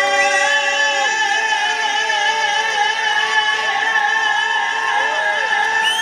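Live band and singing holding a long sustained final chord, steady throughout, with rising-and-falling voices or whistles from the crowd over it.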